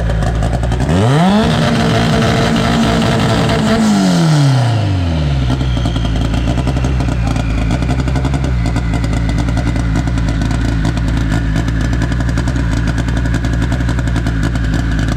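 Car engine idling, revved once about a second in and held at high revs for roughly two seconds, then dropping back to a steady idle.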